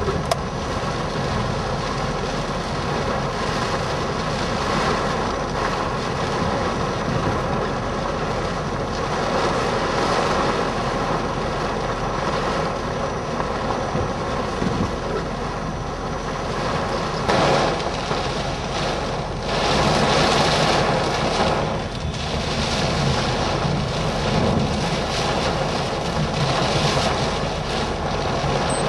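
Steady rushing noise of wind and a vehicle, with a faint steady hum and a few louder swells in the second half.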